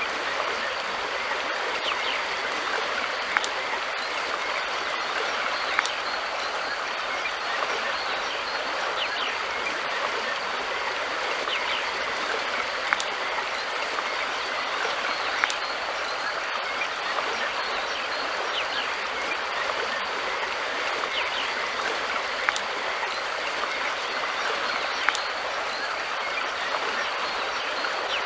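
River water flowing steadily, a continuous rushing hiss, with a sharp click every two to three seconds.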